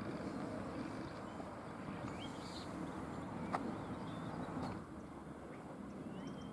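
A few short, faint bird chirps and whistles over a steady low background rumble, with one sharp click about three and a half seconds in.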